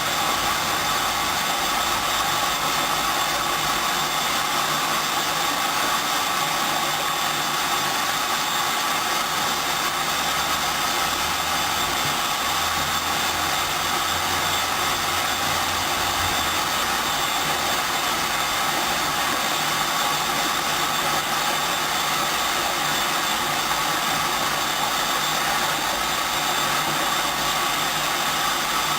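Hoover Dynamic 10124 DP washing machine running its second rinse: a steady, even running noise with no breaks.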